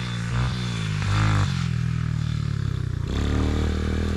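Honda TRX125 single-cylinder four-stroke engine, rebuilt with a bigger-bore 130cc high-compression piston, running under way on a trail bike. The engine note rises and falls with the throttle, holds steady in the middle, and changes pitch again about three seconds in.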